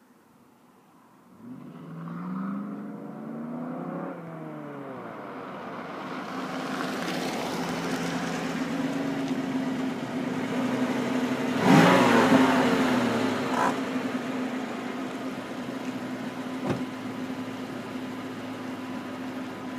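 1994 Ford Mustang GT's 5.0-litre V8 through its stock exhaust, starting up about a second in, the revs flaring and then settling to a steady idle. About twelve seconds in it is given one sharp rev, the loudest moment, followed by a smaller blip, then it idles on. There is a short click a few seconds later.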